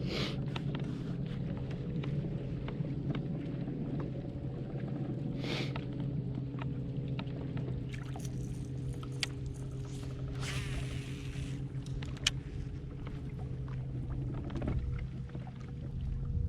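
Boat motor running steadily with a constant low hum, with scattered light clicks and two brief rushing sounds, one about a third of the way in and a longer one past the middle.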